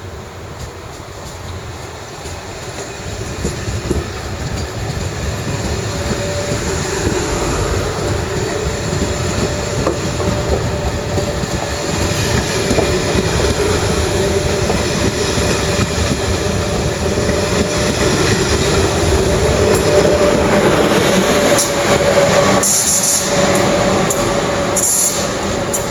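A train running past on the station tracks, getting steadily louder over about twenty seconds with a steady electric hum under the wheel rumble. Sharp, high-pitched squeals and clicks come in near the end.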